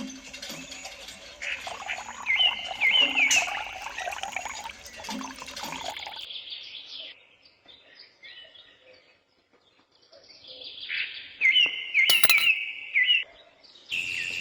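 Small bird chirping in two bouts of quick, repeated calls, one about two seconds in and one near the end, with a nearly quiet stretch between them. A sharp click falls inside each bout.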